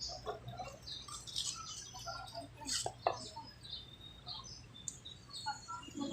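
Birds chirping, a scatter of short high chirps, with two sharp clicks about three seconds in.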